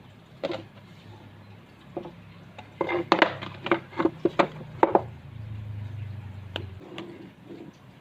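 Sharp knocks and clatter of hard objects being handled: about a dozen in quick succession in the middle, a few single knocks either side. A low hum runs for about a second and a half near the end.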